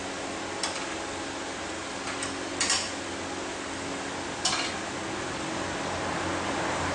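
A steady mechanical hum with a few short, sharp clicks over it, the loudest a quick double click about two and a half seconds in.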